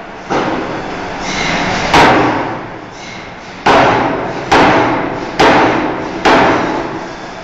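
Forging hammer striking a steel bar in about six heavy blows. The last four come evenly, a little under a second apart, and each dies away in a short noisy ring.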